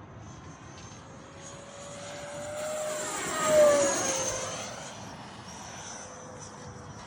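Freewing Eurofighter RC jet's electric ducted fans whining through a fast flyby. The sound builds up to its loudest about three and a half seconds in, then drops in pitch and fades as the jet passes and moves away.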